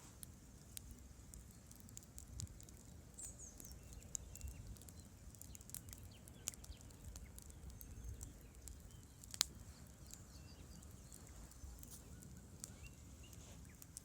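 Wood campfire crackling with scattered small pops, one sharper pop about nine seconds in, over a low steady rush of river water.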